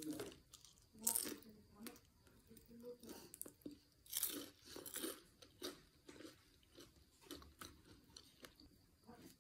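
Chewing and crunching a fried dynamite lumpia, a cheese-stuffed green chili in a crisp spring-roll wrapper: irregular crunches, the loudest about a second in and again around four to five seconds in.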